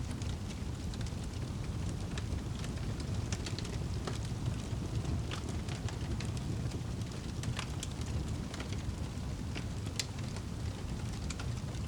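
Wood fire burning in a fireplace with a steady low rumble of the flames and frequent, irregular sharp crackles and pops of the burning logs.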